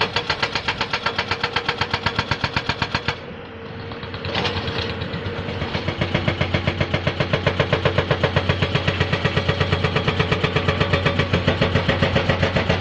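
Hydraulic rock breaker on a Komatsu excavator hammering rock in a rapid, steady run of about six blows a second. It stops briefly about three seconds in, then starts again and builds back to full strength.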